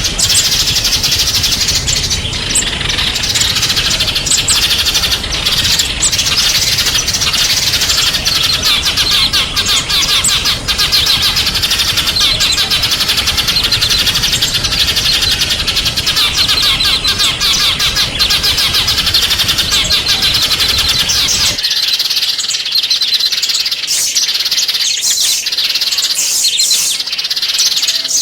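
Small songbirds chirping and twittering rapidly and continuously, in a dense high-pitched chorus. About 21 seconds in, a low background rumble cuts out suddenly while the chirping goes on.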